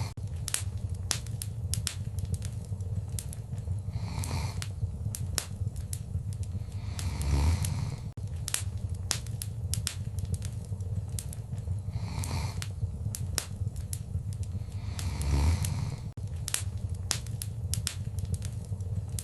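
Wood fire crackling, with frequent sharp snaps and pops over a steady low rumble, and two louder swells about 7 and 15 seconds in.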